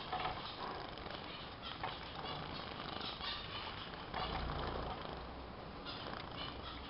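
Small pet finches chirping in short, scattered calls over a steady hiss of spraying water as they are showered.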